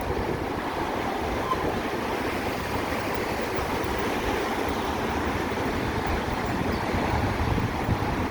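Steady wind rushing over the microphone with road noise while riding a motorcycle in traffic.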